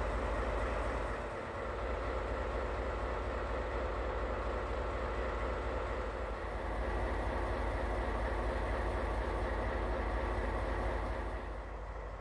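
Steady mechanical rumble of railway equipment, a train or locomotive running close by, easing off a little near the end.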